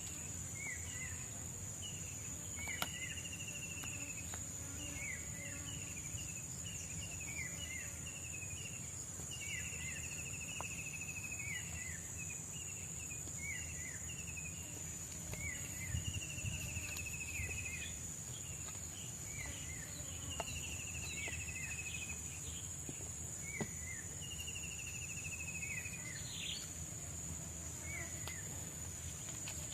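Tropical forest ambience: a steady high-pitched insect drone, with many short repeated chirping calls and, every few seconds, a longer buzzy trill that falls slightly in pitch. A few faint knocks sound from the camp.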